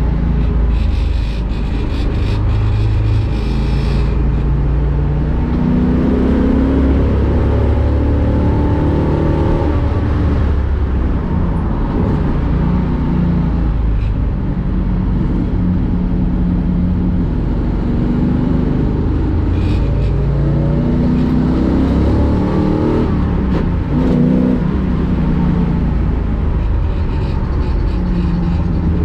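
1965 Ford Mustang race car's engine at full throttle on track, its pitch climbing and dropping back again and again as it is driven up and down through the gears.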